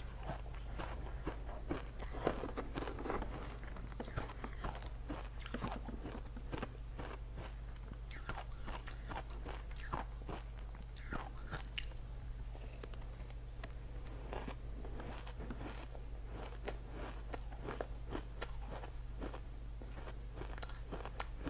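A person biting and crunching ice, with many crisp crunches one after another, over a steady low hum.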